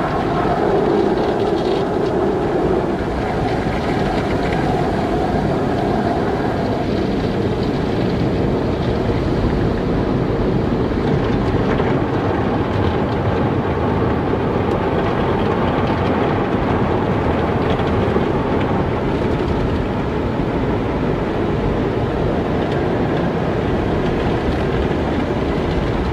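Automatic car wash machinery and water running with a steady, dense rumble. A hum over the rumble fades out in the first few seconds.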